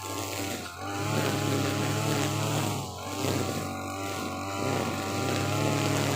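TB43 brush cutter's two-stroke engine running at full throttle with a trimmer head cutting thick grass. The pitch dips briefly twice, about a second in and about three seconds in, as the engine bogs under the load of the dense grass, then climbs back.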